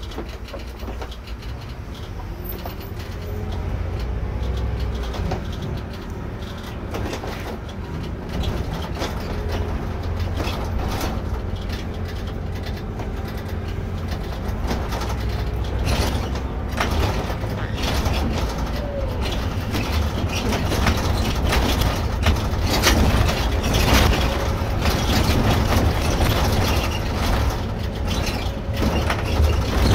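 Irisbus Récréo II coach driving, heard from inside the cabin: steady low engine and road rumble that grows louder, with a faint tone rising in pitch early on and more and more short rattles and clicks from the body in the second half.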